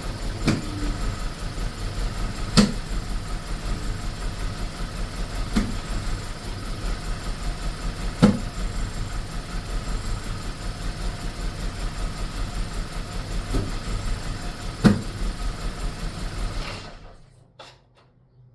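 BMW E46 318's four-cylinder engine idling roughly with a fast uneven pulsing, broken about six times by sharp irregular knocks every few seconds, typical of misfires. The sound stops abruptly near the end.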